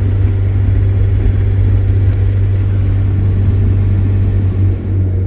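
Heavy vehicle's engine and road noise heard from inside the cab while driving: a loud, steady low drone with a hiss of tyre and wind noise over it.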